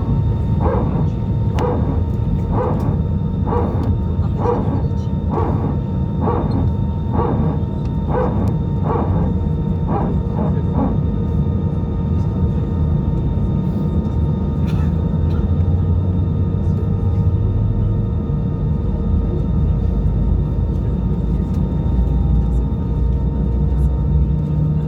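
Steady low rumble and hum of an Airbus A320 with its engines running. Over the first eleven seconds a run of about a dozen short pitched sounds repeats evenly, roughly one a second.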